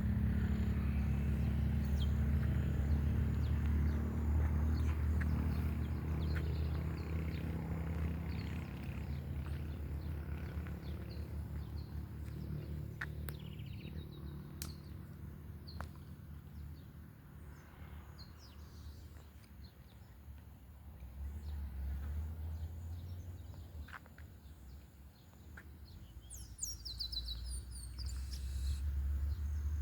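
Rural outdoor ambience: scattered bird chirps over a low rumble that fades through the middle and swells again near the end, with a quick run of high bird notes near the end.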